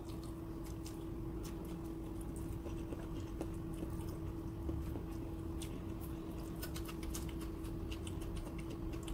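Close-miked eating sounds: chewing chicken adobo and rice, with many small wet mouth clicks and smacks scattered through, over a steady low hum.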